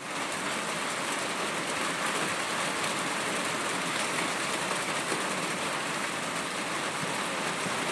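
Steady rain falling, an even rushing hiss.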